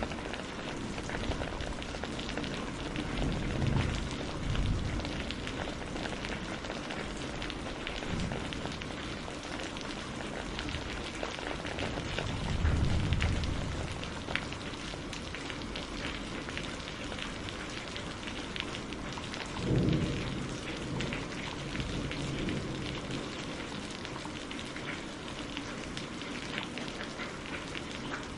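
Steady rain falling on a greenhouse roof, with many separate drop hits. Low rumbles of thunder swell up three times: about four seconds in, around thirteen seconds in and about twenty seconds in.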